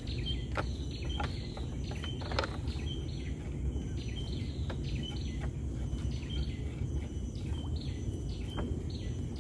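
A bird calling: a short high chirp repeated over and over, roughly one every two-thirds of a second, over a steady low rumble and a few scattered clicks.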